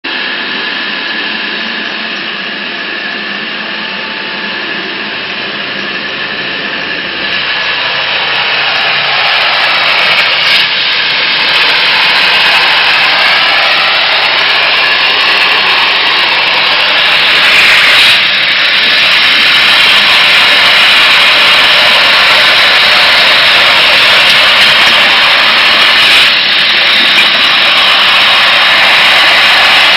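A CNC waterjet cutter's high-pressure water jet hissing steadily as it cuts stainless steel sheet. It grows louder over the first dozen seconds, then holds.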